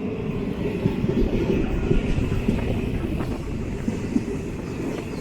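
Diesel multiple unit (DEMU) train running along the track: a steady rumble of wheels on rail with a few light clicks.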